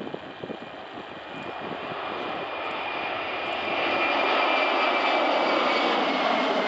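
Jet engine noise of an Airbus A330 on its takeoff run, growing louder over the first few seconds and then holding steady, with a thin high whine that slowly falls in pitch near the end.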